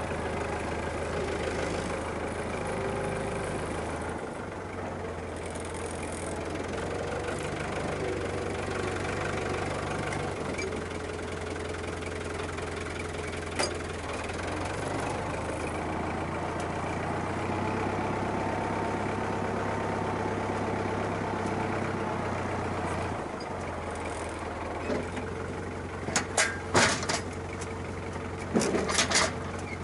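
Farm tractor's diesel engine running steadily, its engine note shifting a few times. There is a single sharp knock about halfway through and a quick cluster of sharp clanks near the end.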